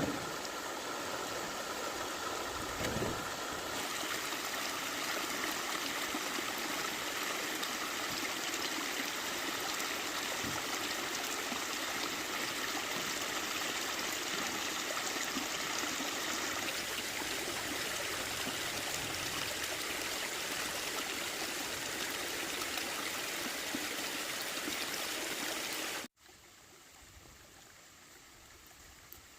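Steady rushing of flowing water, like a stream or water channel. It cuts off suddenly near the end, leaving only faint background.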